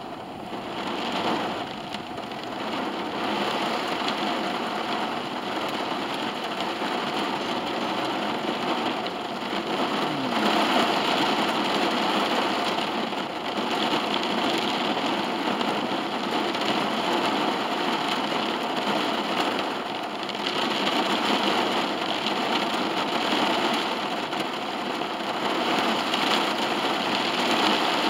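Heavy rain falling steadily on the roof and windows of a car, heard from inside the cabin.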